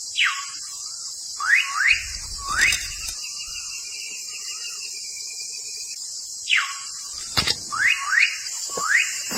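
Bird calls in quick whistled swoops, one falling and then three rising, repeated as the same phrase twice, over a steady high insect drone.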